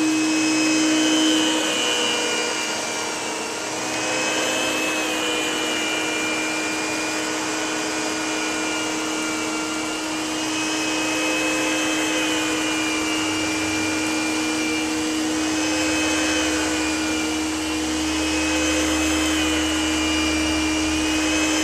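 Electrolux Diplomat vacuum cleaner running, a steady motor hum under a high whine that drifts slightly up and down in pitch.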